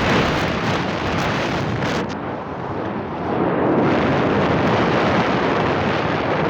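Wind rushing over the microphone of a moving motorbike, a loud steady roar that eases briefly about two seconds in, then builds again.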